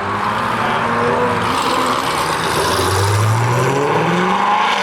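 Sports car engine accelerating hard, its revs climbing steadily through the second half, with a gear change right at the end.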